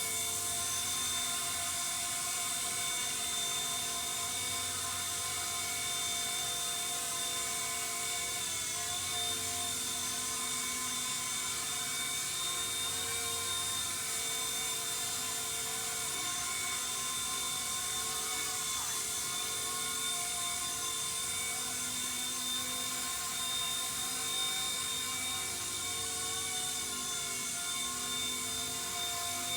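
C-189 MD500 radio-controlled scale helicopter in flight, its electric motor and rotors giving a steady whine made of several held tones.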